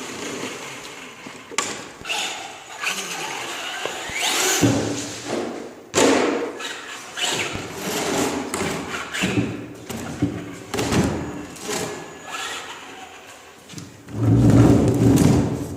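Toy RC car being driven around, with repeated thumps and knocks and a loud low burst of sound near the end.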